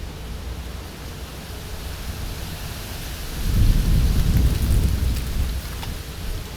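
A low rumble over steady background noise, swelling about three seconds in and fading over the next two seconds.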